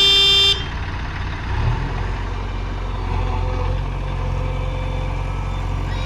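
A short, loud vehicle horn blast at the start, then a heavy diesel engine running steadily, its low rumble picking up about a second and a half in.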